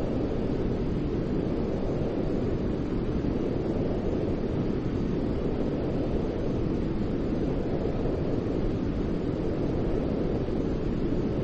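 Steady white noise for baby sleep: an even, low-pitched rushing sound with little hiss, unchanging in level, with no tones or breaks.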